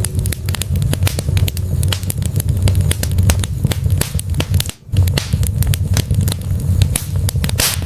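Wood fire burning in a fireplace, crackling with many sharp pops over a steady low rumble. The sound drops out for a moment a little past halfway.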